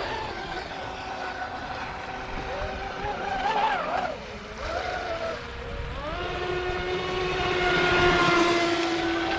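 Radio-controlled speedboat motors whining, the pitch wavering up and down with the throttle. The pitch drops away about four seconds in, then climbs sharply around six seconds and holds high at full speed.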